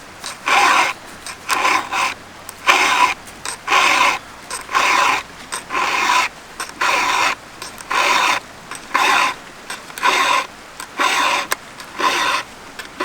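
Round file rasping across a chainsaw chain's cutting teeth in steady strokes, about one a second. The chain was dulled by hitting steel, with its tooth points taken off, and is being filed back into shape.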